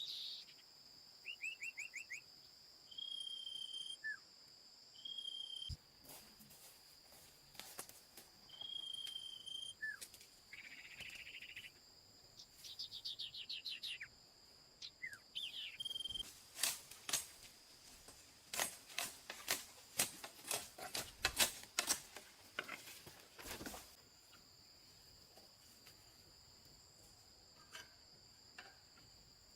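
Steady drone of crickets and other insects, with short, repeated bird calls through the first half. About halfway in, a run of sharp knocks, a little more than one a second, comes in as the loudest sound and stops a few seconds later.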